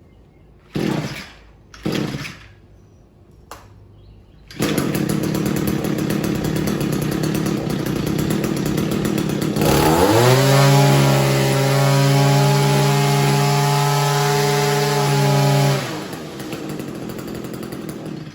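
Echo SRM-210 string trimmer's small two-stroke engine running with its freshly cleaned spark arrestor screen: two short bursts, then the engine idles, revs up quickly to a steady full-throttle scream about ten seconds in, holds it for about six seconds and drops back to idle.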